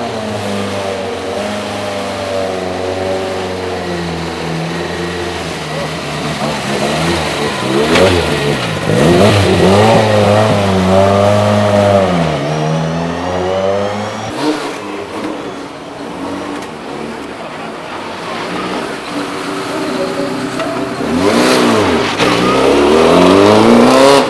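Rally car engine running and being revved: it runs steadily at first, rises and falls in pitch several times through the middle, then climbs to its loudest rev near the end.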